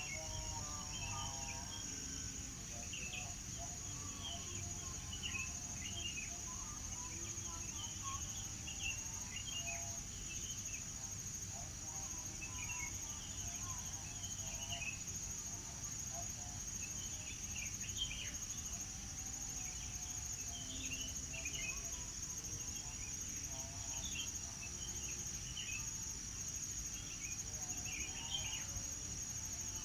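A high, steady insect trill runs continuously, typical of crickets, with many short bird chirps and calls scattered over it, some higher and some lower and warbling, in a morning dawn chorus.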